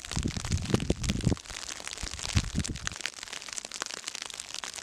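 Gusts of wind buffeting the microphone, strongest in the first second and a half and again briefly about two and a half seconds in, over a steady crackle of falling snow ticking against the microphone.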